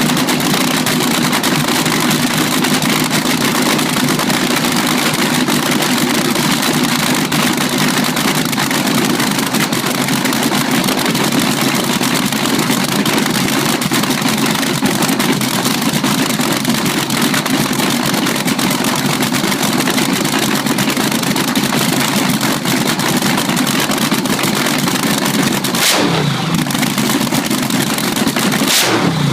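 Race car engine running loudly and steadily at idle, with two brief sharp changes near the end.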